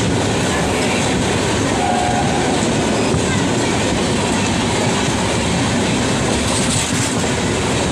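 Steady, loud running noise of a moving passenger train, heard from inside the coach: wheels rumbling and clattering on the track.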